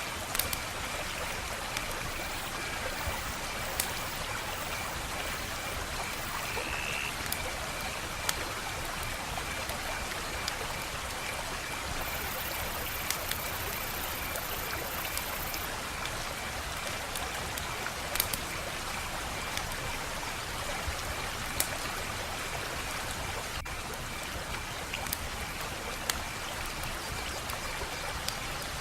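Wood fire burning with a steady hiss and irregular sharp crackles and pops every second or few seconds.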